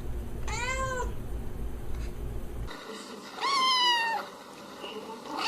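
Domestic cat meowing: a short meow about half a second in and a longer, louder one past the middle, with another beginning right at the end. A low hum under the first meow stops suddenly partway through.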